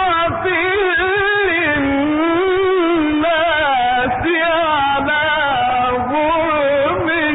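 A man's solo voice chanting Quran recitation in a melodic, ornamented style, the pitch wavering and turning through long held notes with only brief breaks for breath or syllables. The sound is thin and lacks the upper range of an old radio recording.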